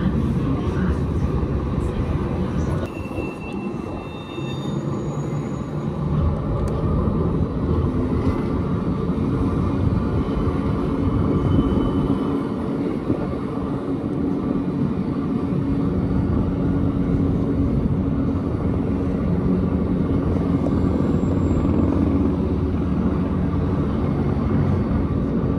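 Gornergrat electric rack-railway train running, heard from aboard: a steady low rumble and hum of the motors, gearing and wheels on the track, with a few brief high whines about three to six seconds in.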